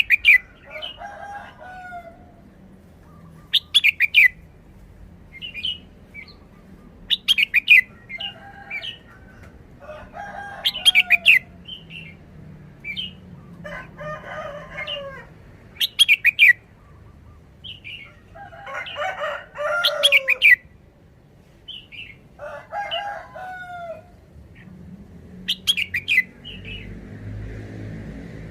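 Red-whiskered bulbul singing short song phrases of sharp notes, a phrase every three to four seconds.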